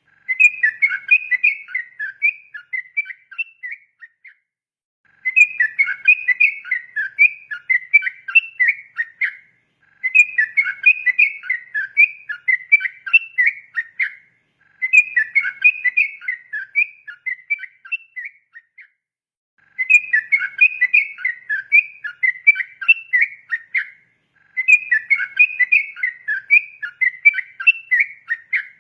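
Yellow-vented bulbul (trucukan) singing its fast 'ropel' song: bouts of many quick, whistled notes about four seconds long, each followed by a pause of about a second, over and over.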